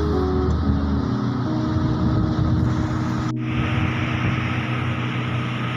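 Motor vehicle engine running with a steady hum, its low pitch shifting about a second in, with a very short break in the sound a little past the middle.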